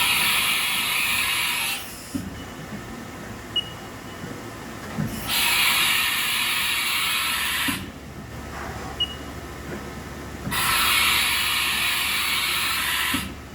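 Haas VF-4 vertical machining center running, giving three loud hissing blasts of about two and a half seconds each, roughly five seconds apart. Low clunks and two brief faint beeps come in the quieter gaps.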